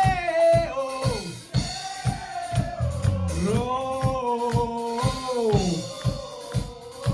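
Live rock band playing: drum kit beating steadily under long, held sung notes that glide up and down.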